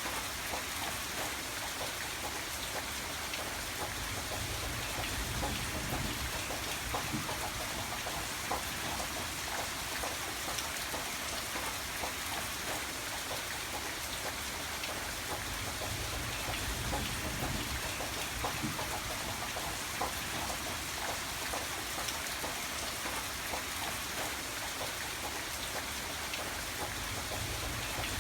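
Steady rain with many distinct drops pattering on a surface. A low rumble swells and fades several times underneath.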